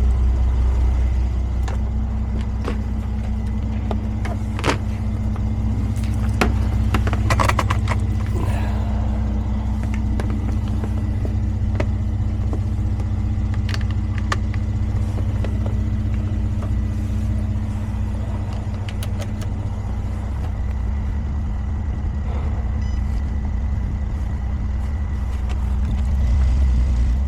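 A vehicle engine running steadily at idle, with scattered light clicks and rattles over it.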